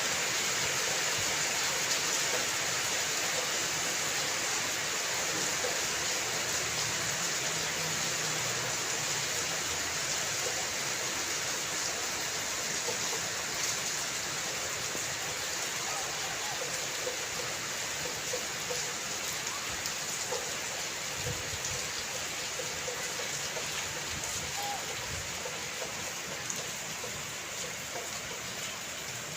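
Steady rain falling, an even hiss of drops on surfaces with no break.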